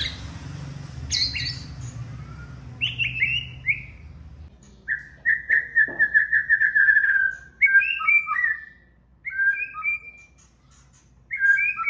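White-rumped shama (murai batu) singing: a string of varied clear whistled phrases with a fast trill in the middle, opened by a couple of sharp chips.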